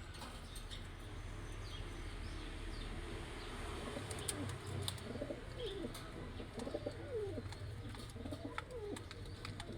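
Pigeons cooing: a run of low, gliding coos that starts about four seconds in and repeats. A few sharp clicks are heard over a steady low hum.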